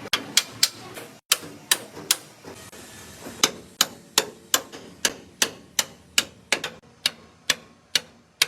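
Hammer blows, sharp single strikes about two or three a second, with a pause of about a second before settling into a steady run.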